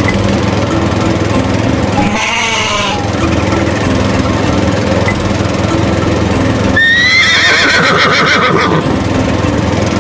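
A small engine running steadily, like a lawn mower, with two animal calls over it: a short wavering one about two seconds in and a longer wavering cry about seven seconds in.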